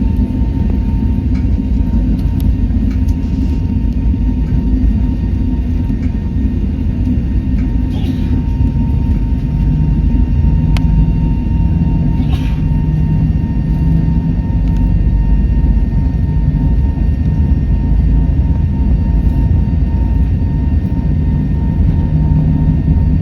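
Boeing 737 cabin noise from a window seat during takeoff: the jet engines at high power give a loud, steady low rumble with a thin steady whine above it. A few faint clicks and rattles come through.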